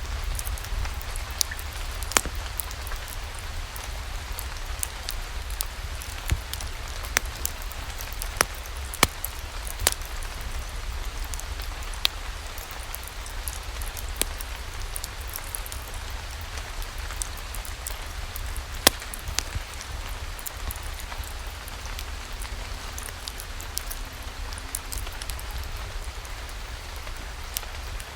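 Steady rain in a continuous hiss over a low rumble, with scattered sharp pops and crackles from a wood fire burning in a fireplace.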